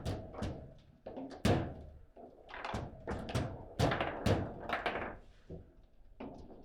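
Table football game in play: the ball being struck by the rod-mounted figures and knocking against the table, a quick, irregular run of sharp knocks and thunks, the loudest about one and a half seconds in and again around four seconds in.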